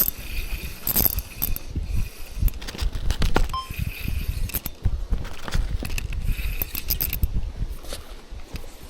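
Strong wind buffeting the microphone in gusts, with a run of sharp clicks and light metallic rattling over it.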